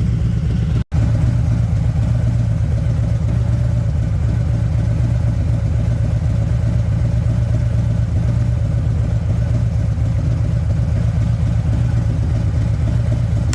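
Harley-Davidson Milwaukee-Eight V-twin idling steadily, warming up to operating temperature on fresh oil, with a split-second gap about a second in.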